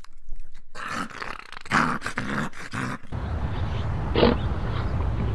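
Animal calls: several short calls in the first three seconds. After an abrupt change about three seconds in, a steady low rumble with one short call just after four seconds.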